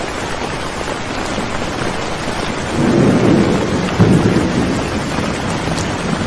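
Steady heavy rain with a roll of thunder about three seconds in, which rumbles for a second and a half and gives a sudden louder jolt about a second after it begins.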